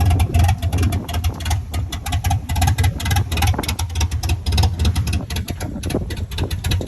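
Truck engine running with an uneven, pulsing idle from its lope cam tune, the throttle being worked to keep it running. The owner puts the rough running down to bad injectors.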